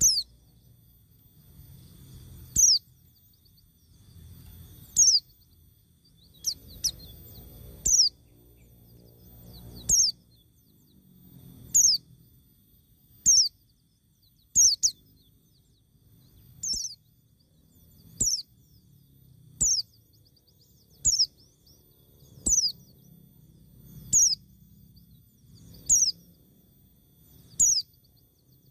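A short, high chirp sliding downward, repeated about every one and a half to two seconds, with a faint low rumble between the chirps.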